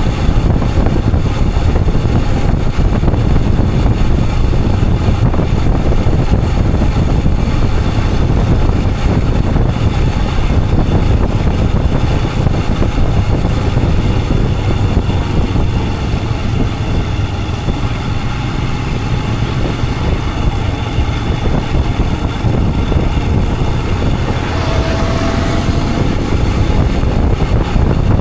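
Royal Enfield Himalayan 411's single-cylinder engine running steadily with the bike under way, mixed with road and wind noise. A brief higher tone is heard about 25 seconds in.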